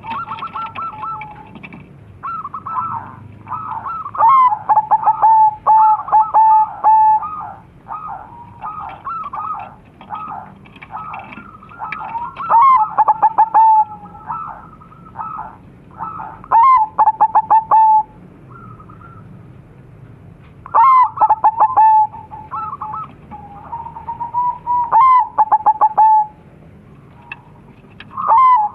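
Crossbred zebra doves (perkutut) cooing in repeated phrases, each a run of quick clipped notes ending in a held coo. The calls come in loud bouts every few seconds, with quieter cooing between them.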